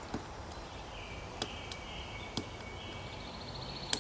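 Pileated woodpecker striking a log with its bill in a few sharp, irregularly spaced knocks, about five in four seconds. Other birds are singing high-pitched phrases and a rapid trill in the background.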